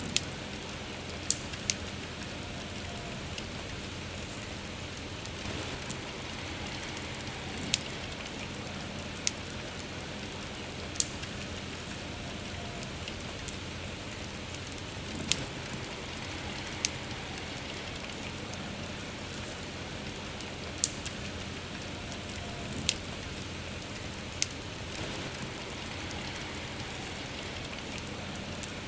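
Steady soft rain falling, with a campfire's sharp crackles and pops breaking through at irregular moments, about a dozen in all.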